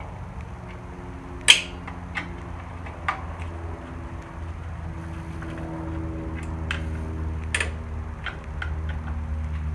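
Metal tools clinking and clanking against the mower's metal parts during disassembly: scattered sharp knocks, the loudest about a second and a half in, over a steady low hum.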